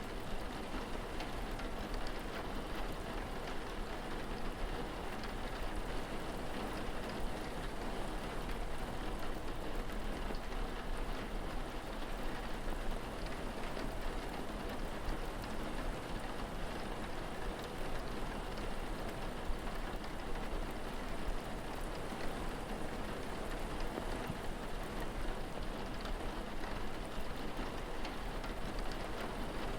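Steady rain falling, an even hiss of many drops, over a low steady rumble.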